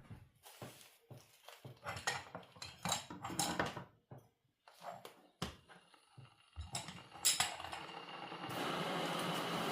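Kitchen clatter: dishes, pans and utensils knocking and clinking in irregular strokes. A steady hiss starts about eight and a half seconds in.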